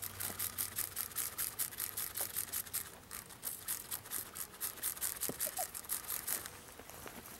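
Hand spray bottle misting a package of honey bees with sugar water: a fast run of short hissing squirts, about four or five a second, that stops shortly before the end.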